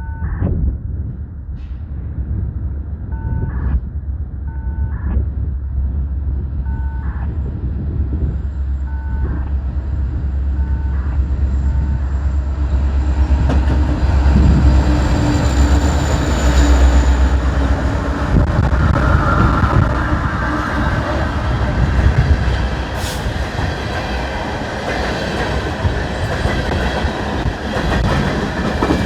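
A coal train approaching and passing close by: a low diesel locomotive rumble builds, then loud wheel-on-rail noise from the cars takes over about twelve seconds in. Over the first ten seconds or so, a short two-tone electronic beep repeats about every one and a half to two seconds.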